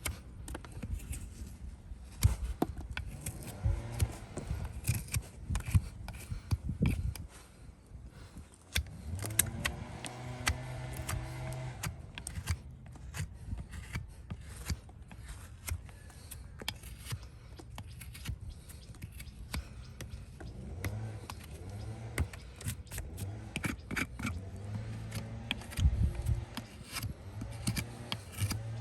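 Farrier's hoof-trimming tools snipping and scraping at hoof horn, a run of sharp, irregular clicks and cuts over a low steady hum.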